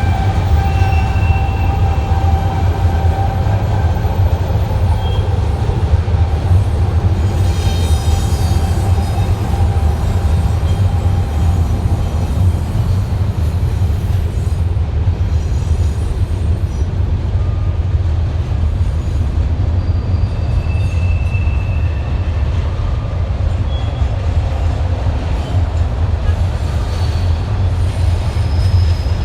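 Freight train cars rolling past with a steady heavy rumble. Thin wheel squeals come and go, one held through about the first half.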